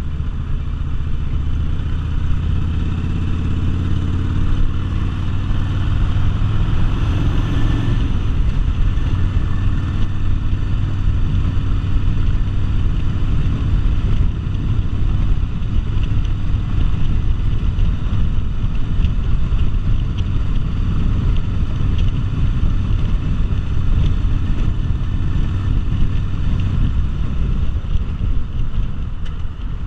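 V-twin cruiser motorcycle engine running under way, mixed with wind rush. Its pitch rises about seven seconds in as it accelerates, then it runs on steadily.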